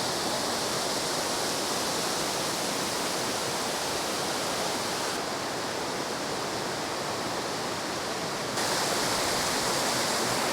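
Steady rush of the River Douglas flowing full after rain, with an abrupt step up in loudness about eight and a half seconds in.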